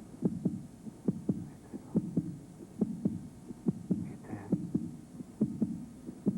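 Heartbeat sound effect: a steady run of low, paired thumps, about two beats a second.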